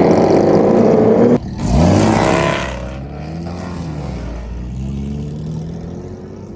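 Car engine loud at first, then after a sudden break revving up and accelerating away, its pitch rising and falling several times as it shifts, fading as the car gets farther off.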